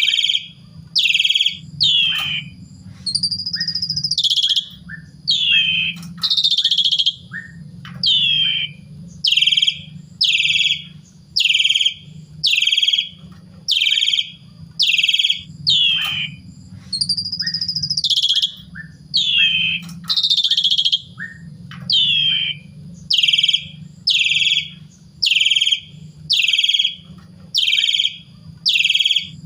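Pied starling (jalak suren) singing hard, a run of loud short calls about one a second, mostly quick falling notes, with a few longer swooping whistles mixed in, over a low steady hum.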